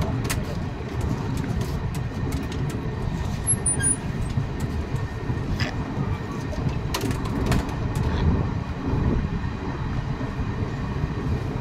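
Passenger train coach moving along the platform, heard from its open doorway: a steady low rumble of wheels on rail, with scattered sharp clicks and clanks.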